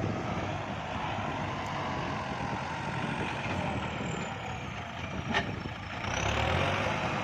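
Kubota farm tractor's diesel engine running steadily, getting louder about six seconds in. A faint high whine slides down and then back up, and there is a single click shortly before the engine swells.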